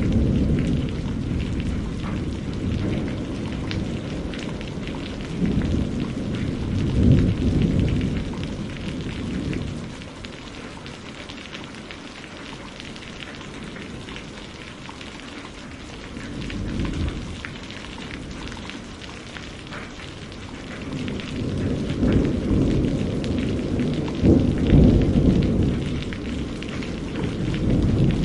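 Steady rain with rolling thunder: a constant patter of rain, with low rumbles of thunder that swell and fade three times, the longest near the end.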